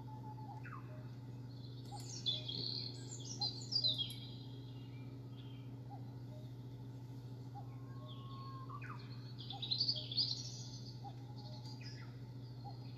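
Wild songbirds singing in two bouts of quick falling chirps, about two seconds in and again near ten seconds, over a steady low hum.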